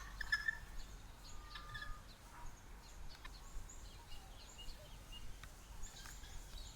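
Helmeted guineafowl calling faintly, with short scattered chirps of other birds.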